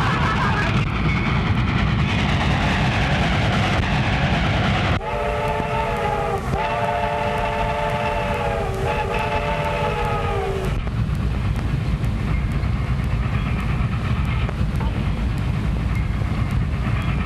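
A train running with a steady low rumble. About five seconds in, its whistle blows three blasts in quick succession, lasting about six seconds in all, and the rumble carries on after.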